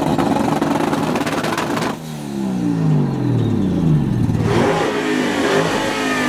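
Modified car engine revved hard at a standstill through a large exhaust: held at high revs for about two seconds, then the revs fall away, with more engine noise near the end.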